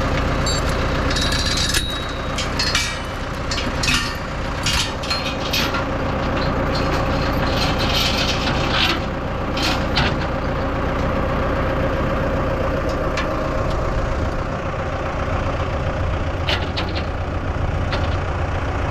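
Heavy machine engine running steadily, with a series of sharp metal clanks and rattles through the first half.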